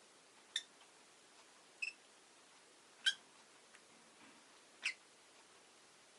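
Rosy-faced lovebird giving short, sharp, high-pitched chirps, four in all, a second or two apart, the loudest about three seconds in.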